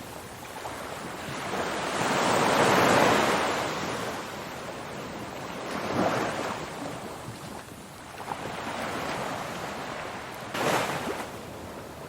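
Ocean surf: waves breaking and washing in, the hiss rising and falling in slow swells, the biggest about two to three seconds in, with a sharper crash near the end.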